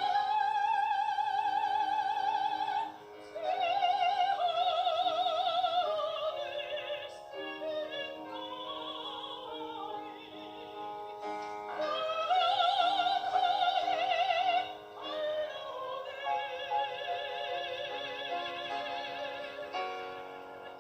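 Soprano singing a Korean art song in operatic style, holding long high notes with wide vibrato over instrumental accompaniment, in phrases with short breaks between them.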